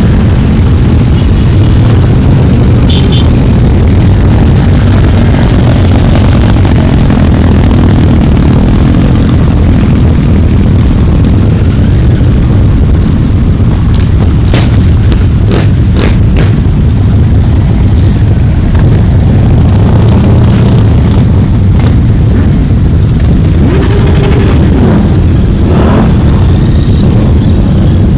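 Many motorcycles riding past, their engines running loudly as one continuous rumble. A few sharp cracks come about halfway through, and engines rev up near the end.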